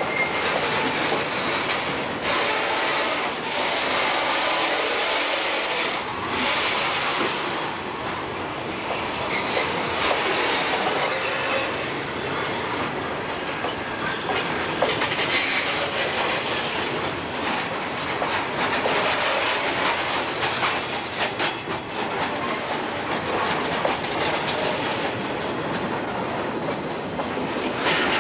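Freight cars rolling past at close range, their steel wheels clattering steadily over the rail with intermittent thin squeals from the wheels.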